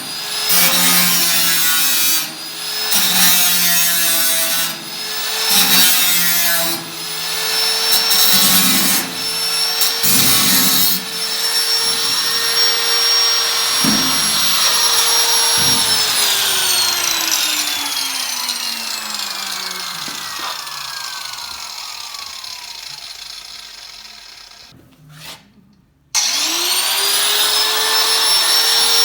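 Handheld electric power tool running at steady speed, with loud bursts of cutting noise over roughly the first eleven seconds as it bites into sheet steel. It is then switched off and winds down slowly over several seconds, falls nearly silent, and is switched on again, spinning back up to full speed near the end.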